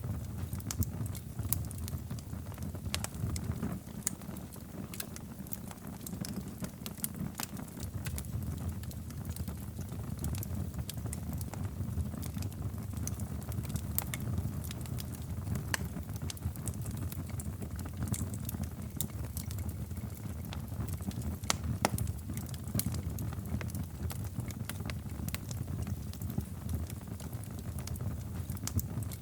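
Wood fire in a fireplace crackling, with many small irregular pops and snaps over a steady low rumble of the burning fire.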